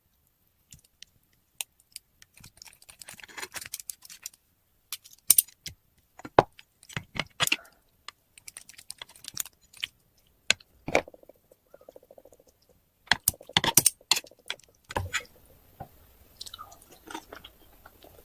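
Close-miked chewing of octopus and spicy buldak noodles: irregular wet mouth sounds with scattered sharp clicks and snaps, a few of them loud.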